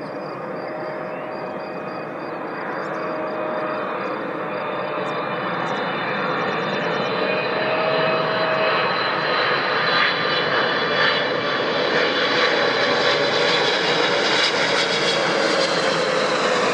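Boeing jet airliner's engines on landing approach: a broad rushing noise with a faint whine that grows steadily louder as the aircraft nears.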